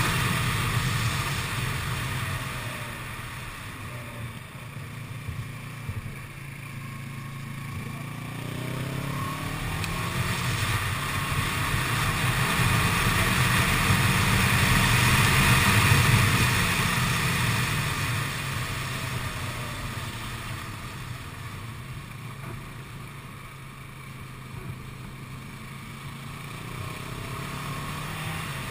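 Kawasaki ER-6n motorcycle's parallel-twin engine under way, with wind noise over it. The engine note falls away as the rider eases off, climbs as the bike accelerates to its loudest about halfway through, drops again and picks up near the end.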